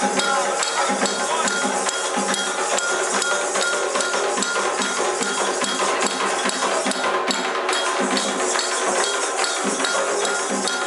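Candomblé ceremonial percussion: atabaque hand drums with a struck metal bell (agogô) keeping a steady, fast rhythm.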